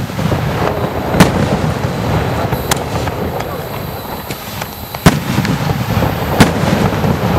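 Hydra Bomb 24-shot canister-shell fireworks cake firing, its aerial shells bursting in sharp loud bangs, four of them standing out, over a constant noisy background between shots.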